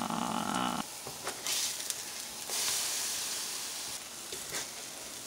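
Banana-Oreo pancake batter sizzling in a non-stick frying pan. The sizzle swells louder for a second or so from midway as a pancake is pressed with the spatula, with a few light spatula taps. A brief steady hum sounds in the first second.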